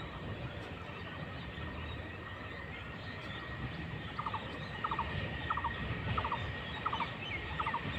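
An animal call repeating about every two-thirds of a second, starting about halfway through, over a steady thin high whine and low background rumble.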